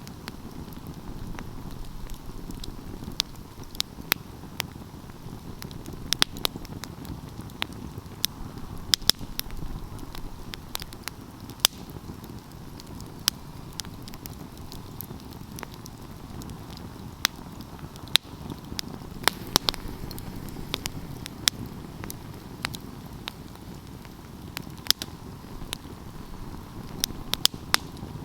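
Open wood fire burning: a steady low rush of flames with frequent sharp, irregular crackles and pops from the burning wood.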